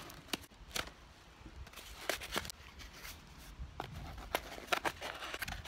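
Small cardboard box being opened by hand: scattered sharp clicks and rustles as the flaps are pried up and folded back.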